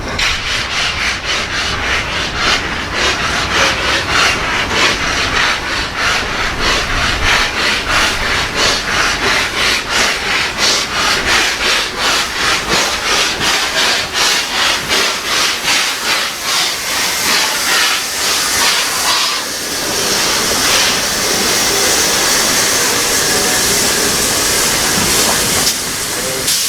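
Steam locomotive working a train, its exhaust beating in a steady rhythm of loud chuffs. About twenty seconds in, this gives way to a steady rushing hiss.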